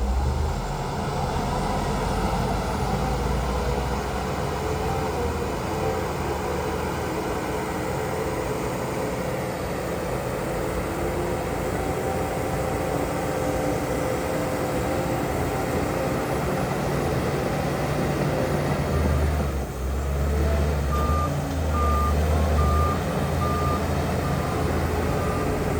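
Heavy diesel earthmoving machinery, dump trucks and a bulldozer, running steadily with a deep engine rumble that swells near the end. A truck's reversing beeper sounds in a regular series of short beeps, starting a few seconds before the end.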